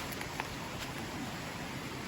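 Heavy rain falling steadily, an even hiss with a few faint taps.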